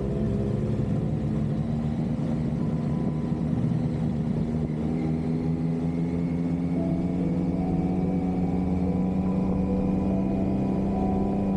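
BMW S1000RR inline-four engine running steadily, its pitch rising slowly.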